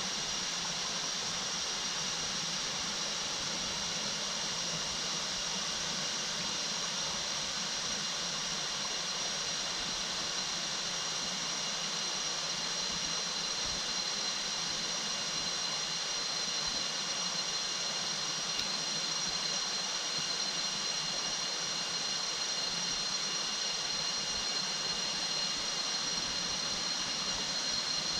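Waterfall rushing steadily, with a faint steady high whine over the rush.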